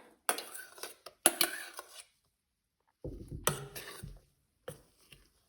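Spatula scraping and swishing through thick batter in a mixing bowl as whipped egg whites are folded in by hand. There are two bouts of strokes with a pause between them and a short one near the end.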